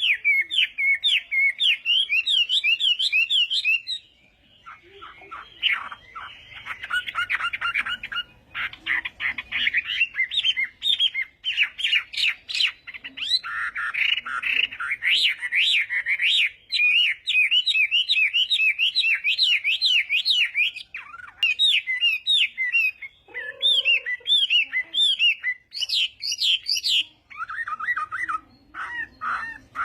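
Chinese hwamei singing a loud, continuous song of fast repeated whistled phrases, each note sweeping sharply up and down, with a short break about four seconds in.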